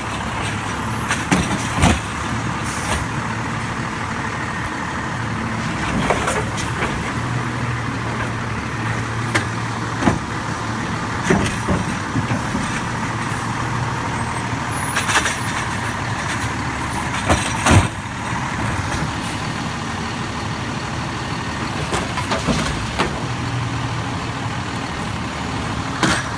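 Garbage truck engine running steadily, with sharp clanks and knocks every few seconds; the loudest knock comes about two-thirds of the way through.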